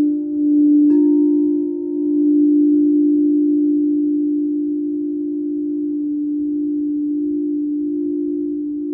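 Sustained ringing tones from a struck resonant instrument. A second, slightly higher tone is struck about a second in, and both ring on, wavering in a slow pulse near the end.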